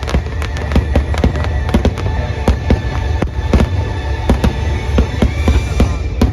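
Fireworks bursting in quick succession, several sharp bangs a second over a continuous low rumble, with show music playing underneath.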